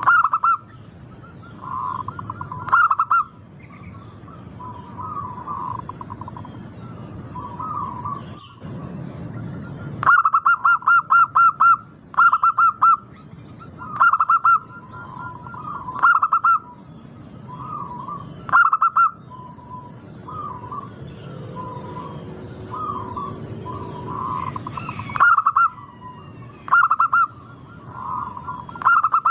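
Zebra dove (perkutut) cooing: loud phrases of short staccato notes repeated every second or two, with softer coos between them and a quick run of about eight notes about ten seconds in.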